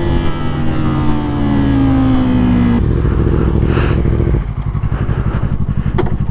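A sportbike engine running on the road. Its note falls steadily as the bike slows, changes about three seconds in, then settles into a low, pulsing beat.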